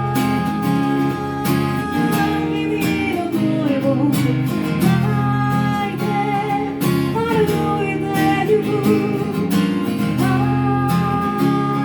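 Live music: an acoustic guitar strummed steadily, with a held melody line over the chords.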